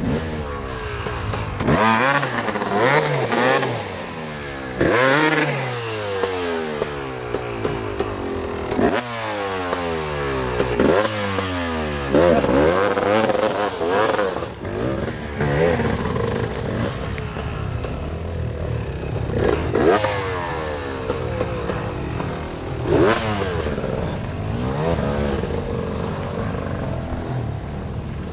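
Dirt bike engine revving up and down over and over as it is ridden, the pitch climbing and then dropping every few seconds as the throttle opens and closes, with some clatter.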